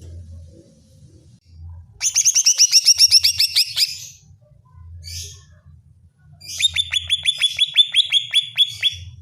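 Greater green leafbird (cucak ijo) giving two rapid trills of repeated sharp notes, about ten a second, each lasting about two seconds. A short raspy note comes between them.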